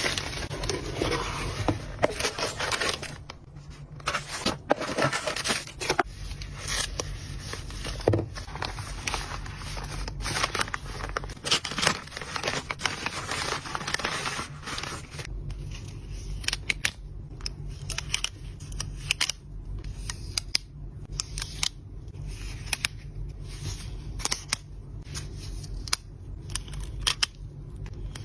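Washi tape being unboxed: packaging rustling and tearing for the first few seconds, then a long run of short, sharp clicks and snips as the packaging is cut and handled.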